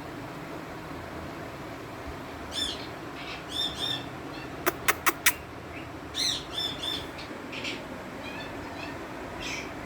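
Female Indian ringneck parakeet giving short, arched chirping calls in scattered bunches over a steady background hiss. Four sharp clicks come in quick succession about halfway through.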